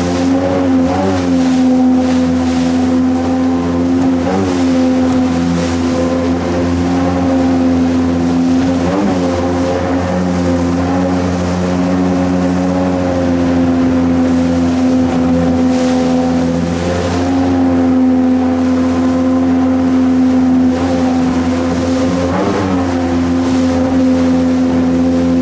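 Jet boat engine running steadily under way, its pitch briefly wavering every few seconds as the throttle changes.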